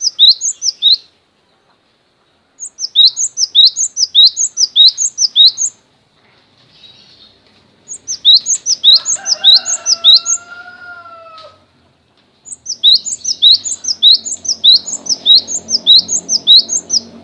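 A small caged songbird calling in four bursts of rapid, sharp high chirps, each note falling steeply in pitch, with short pauses between the bursts. About halfway through, a lower, longer whistle slides down in pitch under the chirps.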